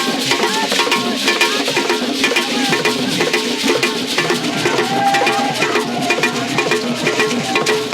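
Drum-led music: drums and other percussion playing a dense, fast beat, with some held pitched tones underneath.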